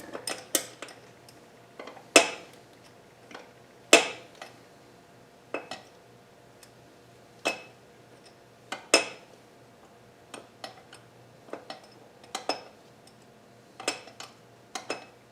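Irregular metallic clinks and taps of a wrench fitting onto and working an intake manifold bolt, with a few louder clanks about two and four seconds in. The bolt keeps spinning back in as the wrench is applied.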